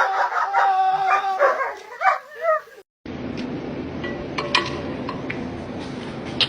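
A dog whining and yipping, with one drawn-out whine held steady for about two seconds, ending abruptly about three seconds in. After that, a steady background hiss with a few sharp clicks.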